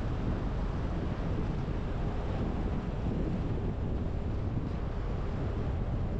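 Steady road and wind noise from a car driving, with wind buffeting the microphone and most of the sound in a low rumble.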